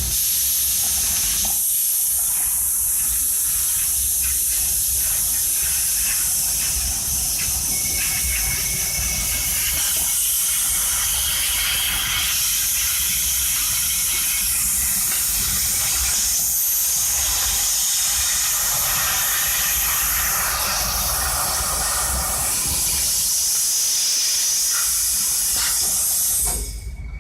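A steady, loud hiss that drops away suddenly near the end.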